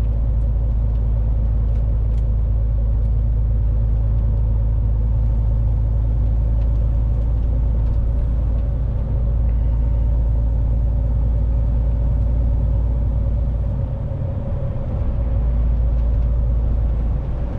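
Lorry driving, heard from inside the cab: a steady low engine and road rumble with a constant hum, easing slightly about three-quarters of the way through.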